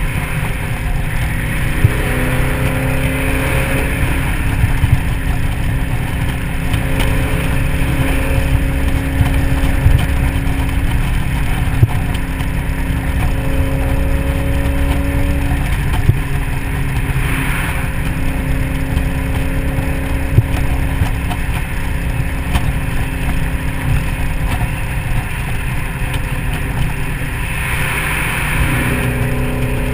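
2003 SVT Mustang Cobra's supercharged 4.6-litre V8 cruising at freeway speed with the top down, its engine note stepping in pitch a few times, over a heavy rumble of wind and road noise on the open car.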